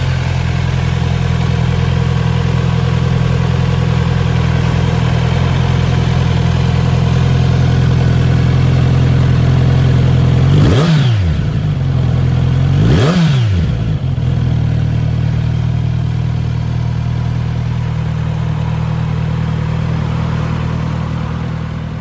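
Kawasaki Z900RS inline-four engine idling steadily, with two quick throttle blips about ten and thirteen seconds in. Each blip rises in pitch and drops straight back to idle.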